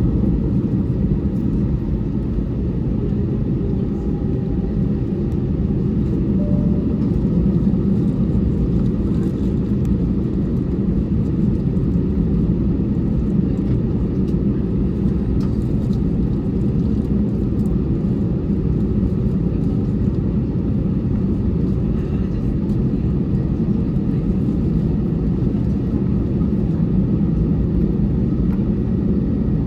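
Steady low rumble heard inside an Airbus A320's cabin, its engines running at idle on the ground before takeoff.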